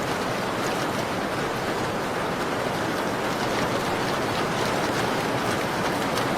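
Steady rain on a window: an even hiss with faint scattered ticks of drops.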